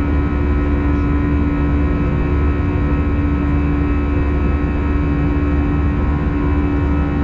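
Airbus A320 cabin noise in flight: a steady drone of engines and airflow with a low hum and several constant tones, unchanging throughout.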